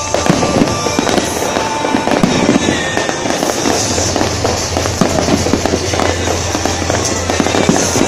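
Fireworks display: aerial shells bursting in a dense, continuous run of bangs and crackles.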